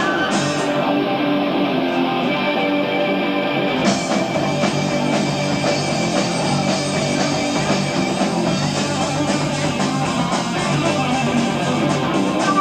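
Progressive rock band playing an instrumental passage live, electric guitar to the fore over sustained keyboards, bass and drums, on an amateur tape recording; the sound brightens in the highs about four seconds in.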